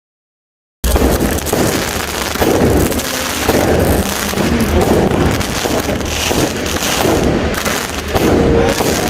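Dense, continuous fireworks and firecracker bangs, many overlapping, cutting in abruptly about a second in after dead silence and swelling and easing about once a second.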